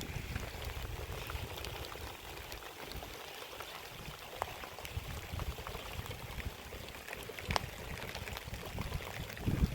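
Rain falling steadily, a soft hiss dotted with scattered drop ticks, with gusts of wind rumbling on the microphone.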